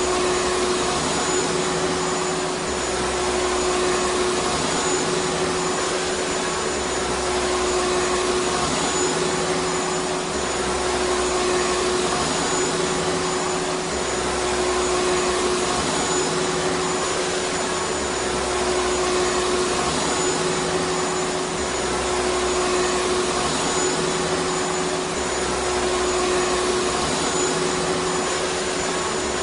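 Vacuum cleaner motor running steadily: a continuous whooshing drone with a steady whine, and a low hum that swells and fades every few seconds.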